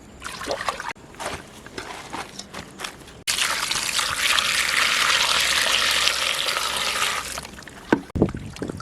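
Water running for about four seconds, starting suddenly and then fading away, with a few sharp knocks of handling near the end.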